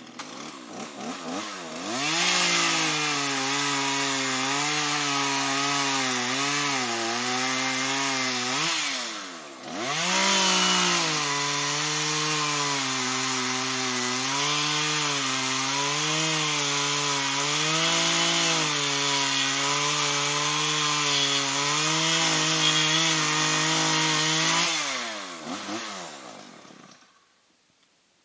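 Chainsaw revving up and cutting through wood, its pitch dipping and recovering as the chain bites. It eases off for a moment about nine seconds in, cuts again, then winds down and stops near the end.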